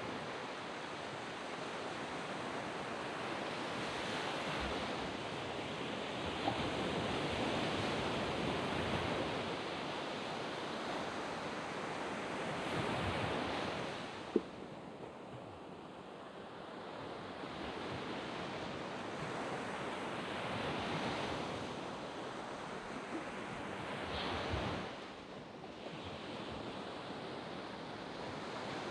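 Small waves breaking and washing up a sand beach, the surf swelling and easing in slow surges every few seconds. A brief sharp click about fourteen seconds in.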